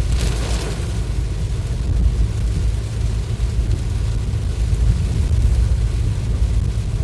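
Vehicle driving through heavy rain: a steady low rumble with rain and road hiss over it, and a brief louder hiss in the first second.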